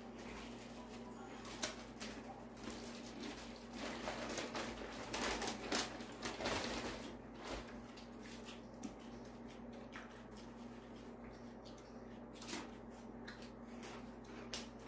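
A person eating crisp roasted rice: irregular crunching and crackling clicks, busiest around the middle.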